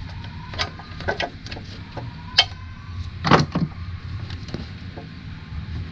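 Scattered metal clicks and scraping of a hand tool prying at a stuck variable valve timing solenoid in an engine's timing cover, with a sharp click about two and a half seconds in and a louder scrape a second later, over a steady low hum.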